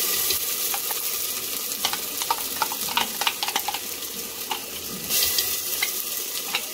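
Ginger-garlic paste sizzling as it is spooned into hot oil in a clay pot, the hiss swelling at the start and again about five seconds in. Scattered clicks and scrapes of a spoon against the glass jar and pot run through it.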